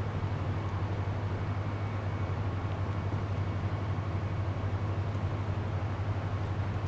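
An engine running steadily, an even low hum with no change in pitch or level.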